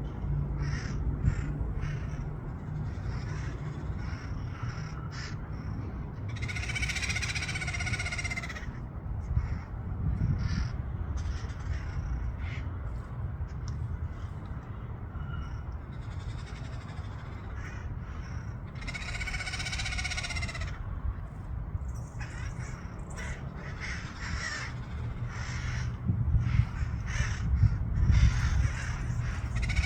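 A flock of wild parrots squawking: scattered short harsh calls, with long loud screeching bouts about seven seconds in, about nineteen seconds in, and again at the end. A steady low rumble runs underneath.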